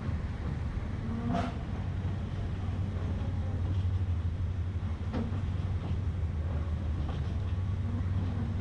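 Train running along the track: a steady low rumble with two sharp clicks, about one and five seconds in.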